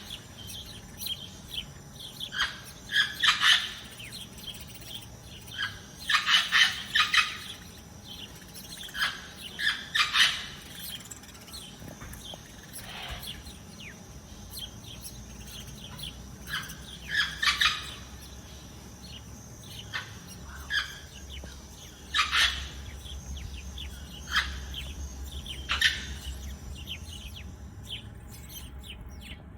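Small songbirds chirping and twittering in short, irregular bursts of high-pitched calls, several clusters close together with brief gaps between.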